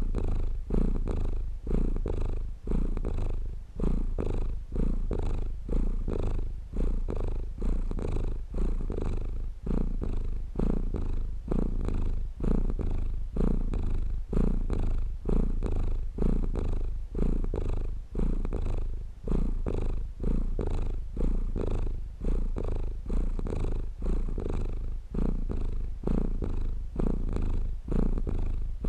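Domestic cat purring steadily close up, the purr swelling and easing with each breath about every second and a half.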